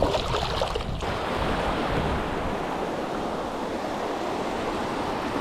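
Ocean surf washing onto the beach, a steady rush, with wind buffeting the microphone heaviest in the first second.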